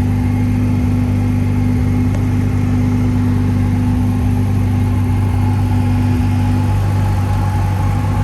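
A vehicle engine idling steadily with a low, even hum. One higher note in the hum drops out about three quarters of the way through.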